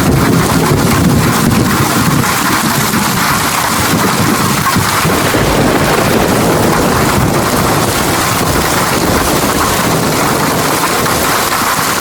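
Steady rain, with a low rolling rumble of thunder that comes in at the start and dies away over about five seconds.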